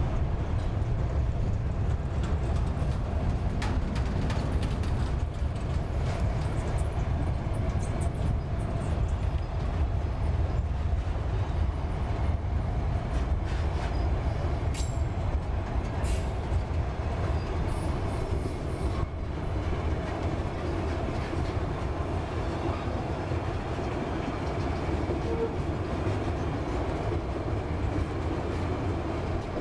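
Freight train wagons (boxcars, then tank cars) rolling past at close range: a steady low rumble of steel wheels on the rails, with clatter from the wheels and couplings.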